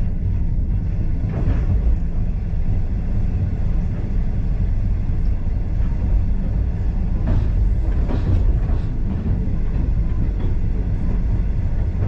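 A heritage passenger train running along the track: a steady low rumble of the carriage on the rails, with a few brief clatters about a second and a half in and again around seven to nine seconds in.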